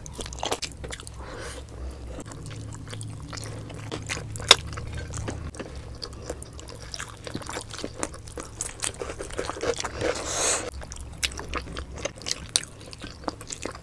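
Close-miked mouths chewing and biting soft, fatty braised pork belly: a run of wet smacking and squelching clicks, with one sharp click about four and a half seconds in.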